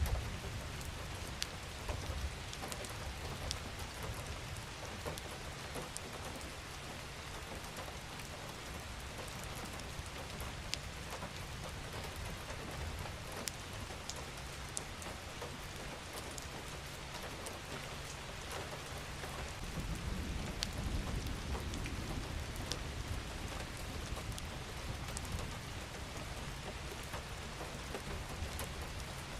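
Steady rain falling, an even hiss with scattered individual drop taps. A low rumble swells about two-thirds of the way through and then fades back under the rain.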